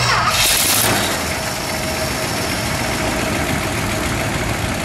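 Chrysler 413 cubic-inch V8 just started, loudest for its first second, then settling into a steady, smooth idle.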